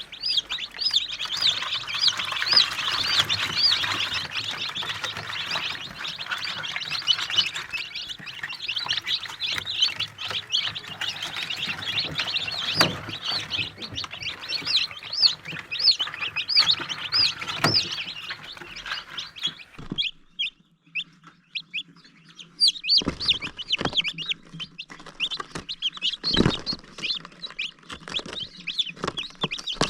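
Chicks peeping, many short high calls overlapping densely, thinning out to scattered peeps after about twenty seconds, with a few brief knocks near the end.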